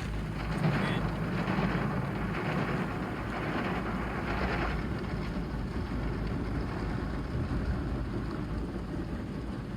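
Water spray from an automated car wash pelting the car, heard from inside the cabin as a dense, rain-like hiss over a low rumble. The spray is heavier for the first few seconds, then eases.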